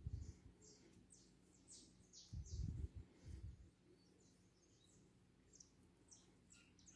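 Faint, quick high chirps of a small songbird, repeating many times, with a few soft low bumps near the start and again two to three seconds in.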